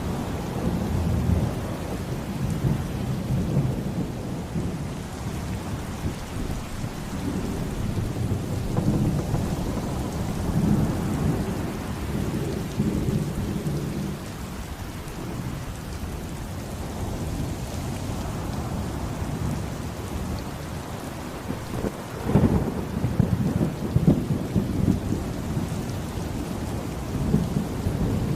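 Thunderstorm: steady heavy rain hiss under rolling, swelling thunder rumbles. A sharper thunderclap breaks about 22 seconds in and rolls on into more rumbling.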